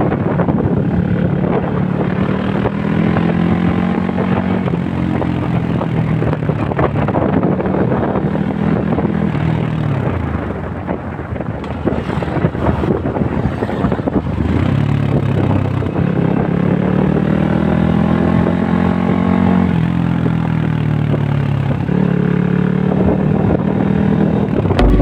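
A vehicle engine whose pitch rises, holds and then falls, twice: speeding up and slowing down, over a steady rush of noise.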